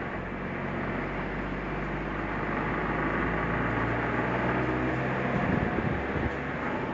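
Suzuki Jimny driving up a mountain forest road: a steady engine drone with tyre and road noise, becoming an uneven rumble about five seconds in.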